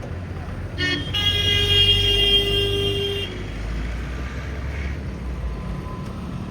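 A vehicle horn sounding: a short toot just before a second in, then one long steady blast of about two seconds, over a low rumble of traffic.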